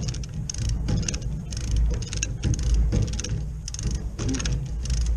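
A vehicle engine running with a steady deep rumble, overlaid by short high-pitched rasping bursts that repeat several times a second.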